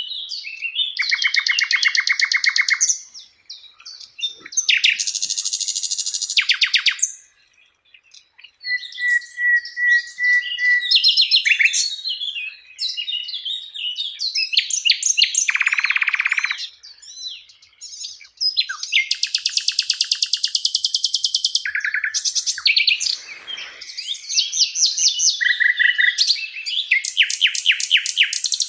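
A sikatan londo flycatcher singing in bouts of very fast trills, each lasting a couple of seconds with short pauses between, some pitched high and some lower. This is the bird in full, vigorous song.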